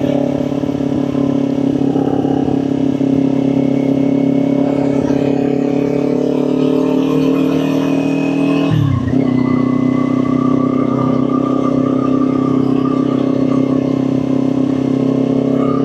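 Kawasaki Ninja 400 parallel-twin engine running steadily under way, with a brief dip and recovery in engine pitch about nine seconds in.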